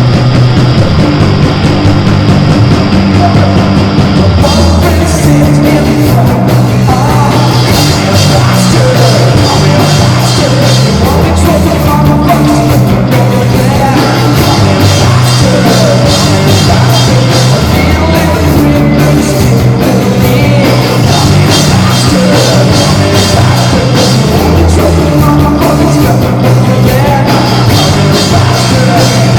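Live band playing loud rock music with a stepping bass line; about four seconds in the sound brightens as the high end fills in.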